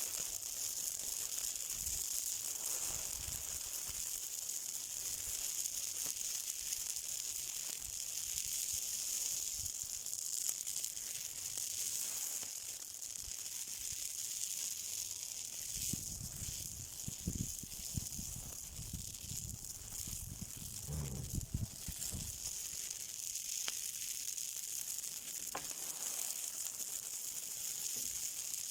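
Something burning with a steady high hiss and sizzle, a few faint crackles, and a stretch of low rumbling from about sixteen to twenty-two seconds in.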